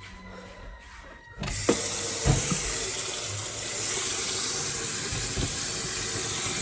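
A water tap is turned on about a second and a half in and runs steadily into a sink, with a couple of knocks just after it starts.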